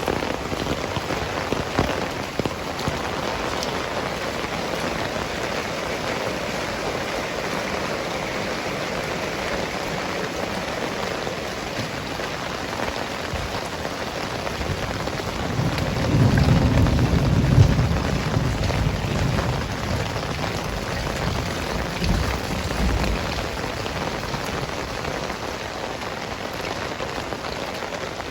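Heavy rain falling steadily. A low rumble of thunder comes in about halfway through and lasts a few seconds.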